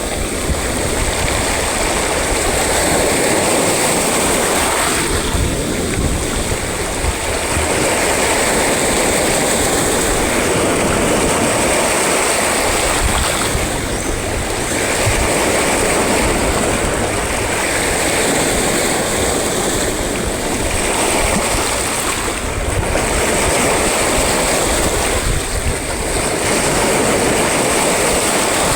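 Sea waves breaking and washing on the shore in a continuous loud rush that swells and eases every several seconds, with a rumbling low end.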